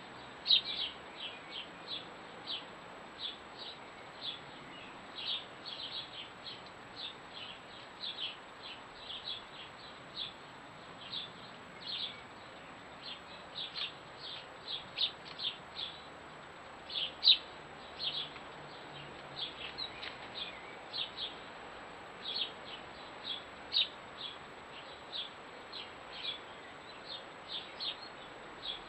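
A small bird calling with a steady string of short, high chirps, about two a second, with a few louder ones standing out.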